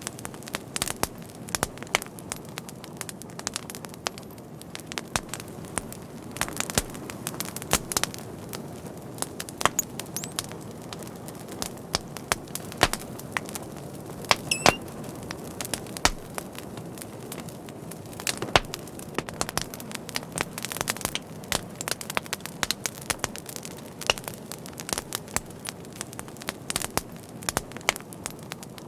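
Wood fire crackling, with irregular sharp pops and snaps over a steady hiss of burning. A brief high whistle sounds about halfway through.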